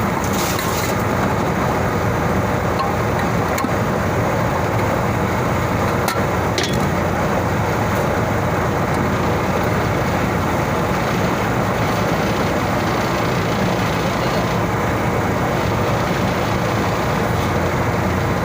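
Steady, loud machinery drone that does not change, with a few faint metallic clicks.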